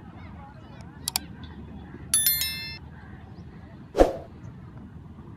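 A metallic clang that rings for about half a second, about two seconds in, then a louder dull thump near the end, over a steady background hubbub; a quick pair of sharp clicks comes about a second in.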